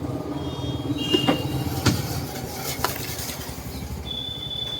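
Small clicks and taps of a smartphone being handled during a loudspeaker (ringer box) replacement, a few separate clicks over a steady low rumble of background noise, with two brief high steady tones.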